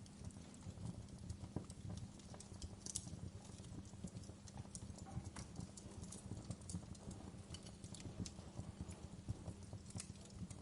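Wood fire crackling: irregular pops and snaps over a steady low rumble of burning.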